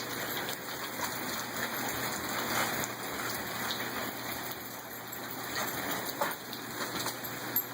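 Steady rain falling, an even hiss with scattered louder drop hits.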